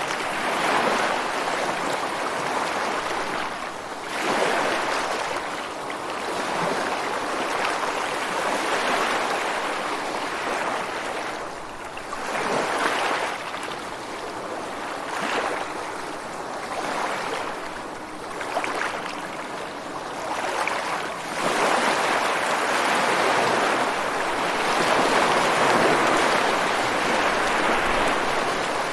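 Ocean surf breaking and washing ashore in a continuous hiss, swelling louder every few seconds as each wave comes in, with a longer, louder stretch over the last third.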